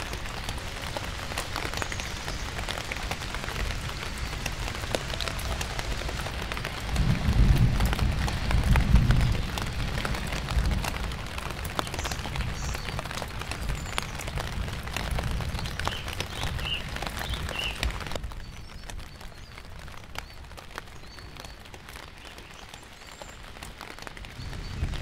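Steady rain falling on leaves and a tarp, with many single drops ticking. A low rumble swells for a few seconds about a third of the way in. About three-quarters of the way through, the rain turns to a softer patter.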